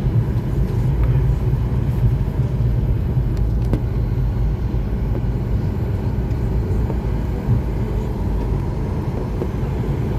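Steady low rumble inside the cabin of a Boeing 737 MAX 8-200 during landing, with a few faint clicks and knocks.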